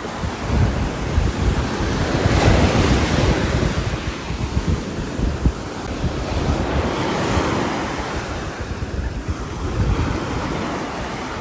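Rain falling on a roof, a dense rushing noise with a heavy low rumble that swells about two seconds in and again near the middle, then eases.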